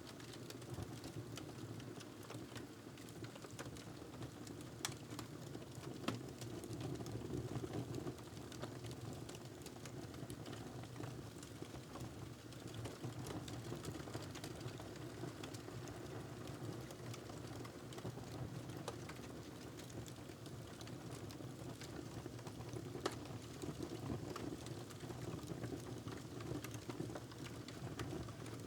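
Wood fire crackling in a fireplace: a steady low rumble with frequent small crackles and a few sharper pops, the clearest about five, six and twenty-three seconds in.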